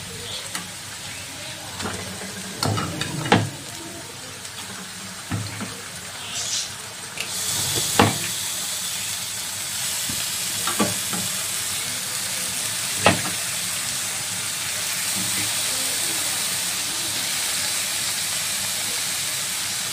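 Marinated chicken frying in a kadhai of hot onion masala: a steady sizzle that sets in about seven seconds in, after a few knocks and scrapes. A metal spatula knocks sharply against the pan a few more times as it stirs.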